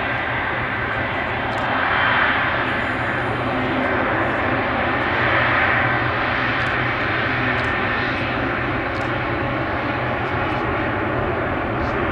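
Jet engines of an Air France Boeing 777-200ER running in a steady loud rush of noise with a faint steady hum under it, swelling briefly about two seconds in and again about five seconds in.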